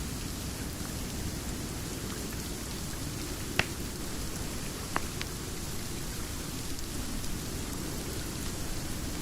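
Steady rain with a low, even rumble, over a crackling fire that gives a few sharp pops, the loudest about three and a half seconds in and two more close together a second and a half later.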